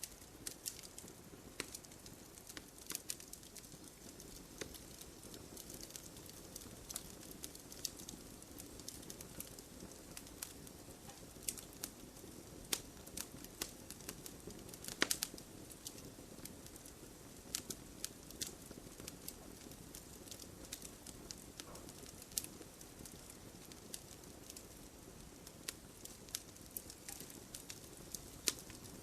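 Wood fire crackling: irregular sharp pops and snaps over a low, steady hiss of burning, with a cluster of louder pops about halfway.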